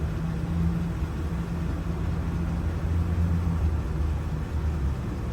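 A steady low mechanical hum, the kind of sound an idling engine or running motor makes.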